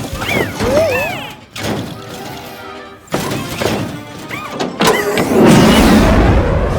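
Cartoon sound effects over background music: a run of quick whistling pitch glides that rise and fall, then a loud crashing rumble starting about five seconds in.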